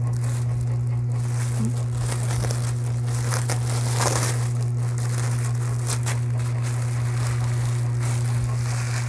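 Clear plastic packaging crinkling and rustling as it is handled and pulled open around a bag, loudest about four seconds in. Under it runs a loud, steady low hum.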